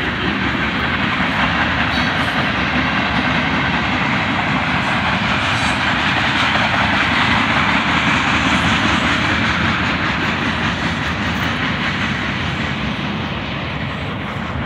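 Freight train rolling past on the rails, a steady rumble of wheels and cars that swells a little midway and eases off near the end.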